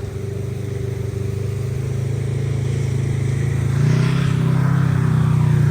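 ATV engine running under way, growing steadily louder, its pitch stepping up a little about four seconds in as it speeds up.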